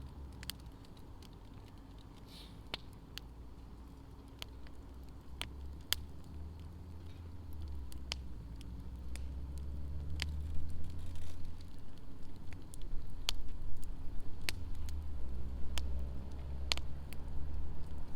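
Wood fire in a fire pit crackling, with scattered sharp pops, over a low rumble that grows louder about halfway through.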